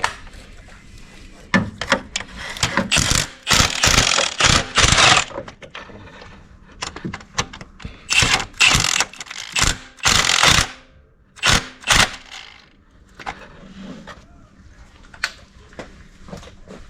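Ratchet wrench clicking in several quick bursts, with pauses between, as bolts are run in during reassembly.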